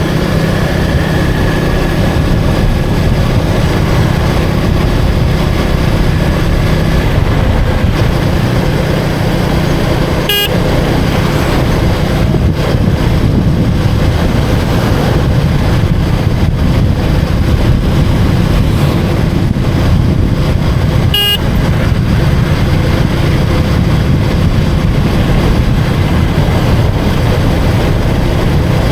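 Motorcycle engine running steadily under way in street traffic. Two short horn toots cut through, about ten seconds in and again about twenty-one seconds in.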